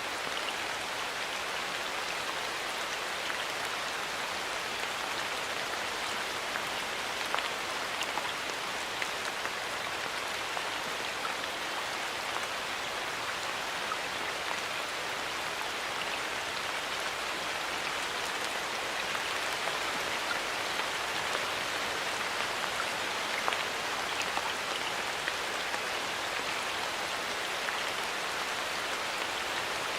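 Steady light rain falling in a forest, a continuous patter with single drops ticking here and there.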